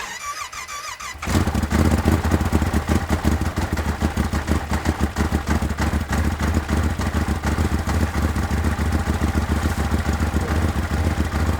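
A brief warbling tone, then about a second in a snowmobile engine cuts in and runs steadily with a fast, even beat in deep frost.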